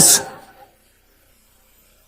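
Isolated metalcore lead vocal: a shouted word ends on a hissed "s" in the first half-second, then near silence.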